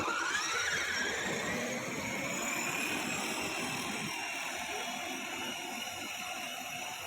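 Electric motor of a kids' ride-on car whining up in pitch over the first couple of seconds, then running steadily.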